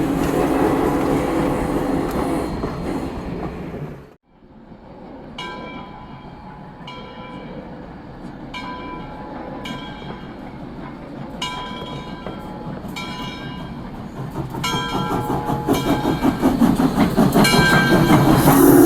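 A train running past with a steady rumble that breaks off suddenly about four seconds in. Then a railroad bell rings about once a second while the train's noise builds up and grows loud near the end.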